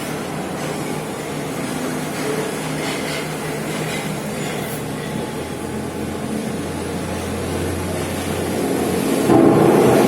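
Heavy rain with a steady low mechanical drone under it; the drone and rumble swell louder about nine seconds in.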